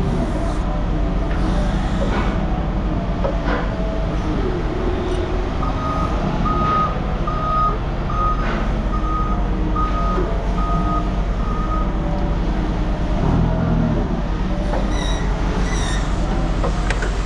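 Heavy vehicle's engine running steadily while its backup alarm beeps, about three beeps every two seconds, for roughly six seconds in the middle.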